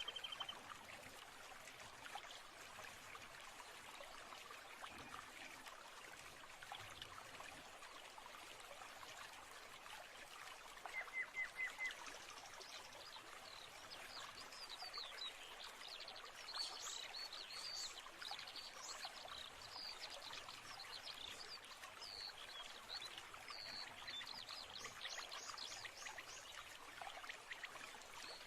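Running water of a small stream, a steady hiss, with songbirds calling over it: a quick run of four chirps about eleven seconds in, then frequent higher chirps and trills through the second half.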